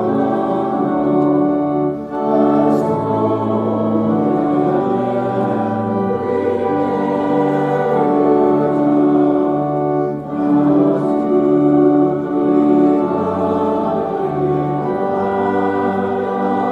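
Organ playing a hymn in slow, held chords over a moving bass line, with voices singing along.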